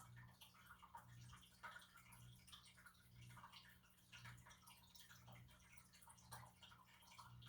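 Near silence: room tone with a faint low hum that swells about once a second, and scattered faint small ticks.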